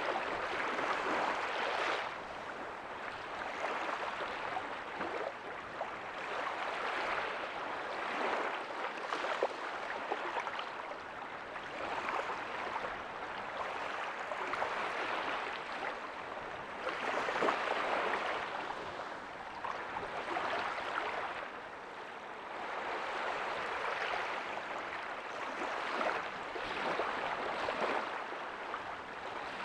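Small ocean waves breaking softly on a beach, the surf hiss swelling and fading every few seconds.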